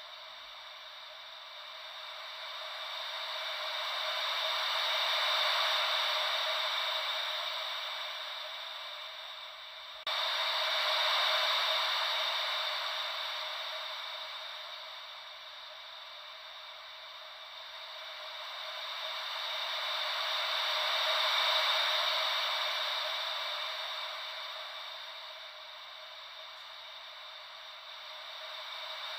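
Thin, hissy white noise shaped as gentle ocean waves, slowly swelling and fading over several seconds at a time. About ten seconds in, the level jumps up suddenly, as if the loop restarts.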